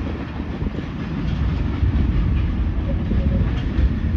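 Freight train of covered hopper cars rolling away over the rails: a steady low rumble of steel wheels on track.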